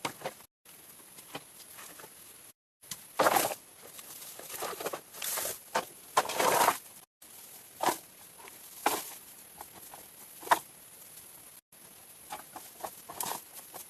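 Ducks quacking in a few loud, raspy calls, with small taps and pattering between them. The sound drops out completely for a moment several times.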